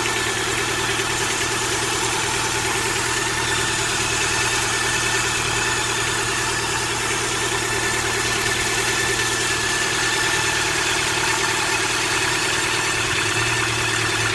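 Car engine idling steadily with a rapid, even tapping from its hydraulic valve lifters, the lifter knock the owner is demonstrating.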